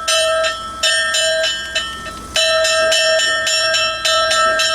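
Church bell rung in a rapid festive peal, struck several times a second with its tone ringing on between strokes; the striking eases off briefly about two seconds in, then starts again.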